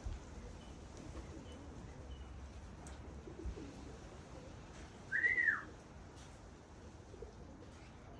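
A single short whistled note about five seconds in, rising then falling, over faint low outdoor rumble, with a few faint low sounds before it that may be pigeon coos.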